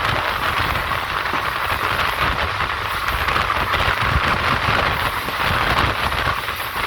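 Passenger train running, heard on board: a steady rumble with a rushing hiss over it.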